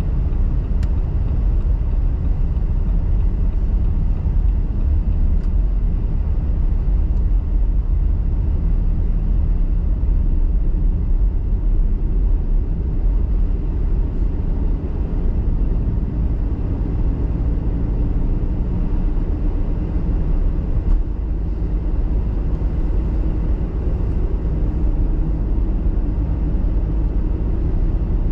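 Car driving through a snowstorm: a steady low rumble of engine and road noise.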